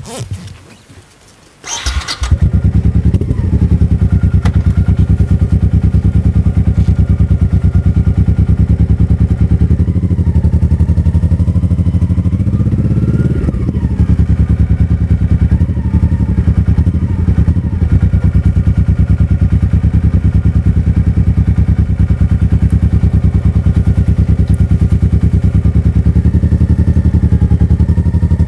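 Motorcycle engine started about two seconds in, then idling with a steady, even beat; near the middle it briefly rises in pitch and settles back.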